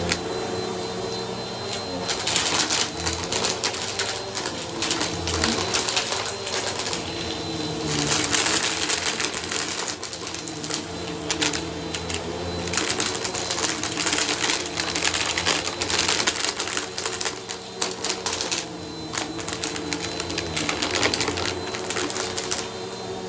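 Bissell vacuum cleaner running steadily over a shag rug, its motor humming under repeated stretches of dense crackling as grit and debris rattle up into the machine.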